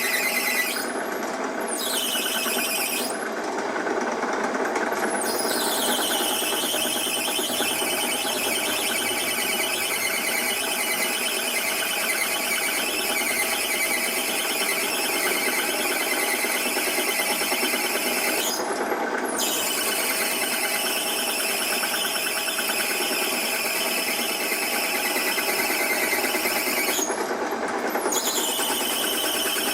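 A machine tool cutting tough metal, running with a steady high squeal.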